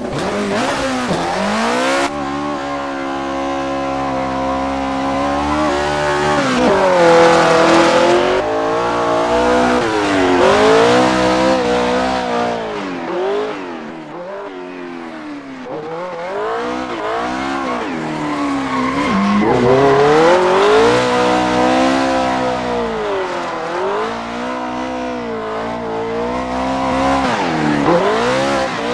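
Engine-swapped Lada VAZ-2105 drifting: the engine revs up and down again and again, with tyres squealing.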